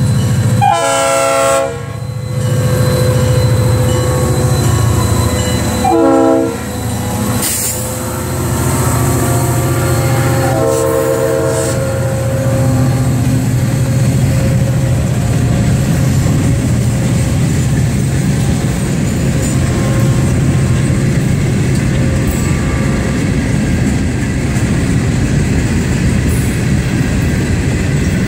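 Florida East Coast Railway freight train passing close by. The lead locomotive's air horn sounds three chords: a long blast at the start, a short one about six seconds in, and a longer one near twelve seconds. Under the horn, and alone afterwards, is the steady rumble and clickety-clack of the wheels of hopper cars rolling past.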